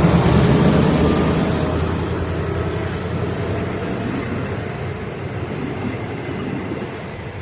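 Diesel train running past, its engine hum and wheel rumble fading steadily as it moves away.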